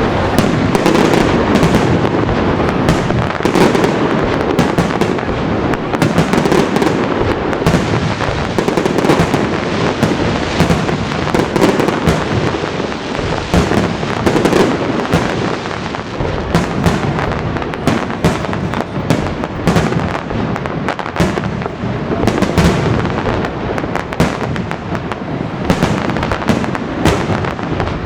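Large fireworks display: a dense, unbroken barrage of shell bursts, many bangs overlapping over a continuous rumble.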